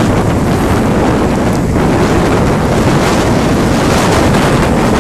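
Strong wind buffeting the microphone, a steady loud rumble, over the wash of storm-driven sea waves.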